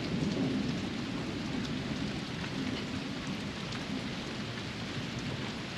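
Steady rain falling during a thunderstorm, an even hiss of rain with no sharp peaks.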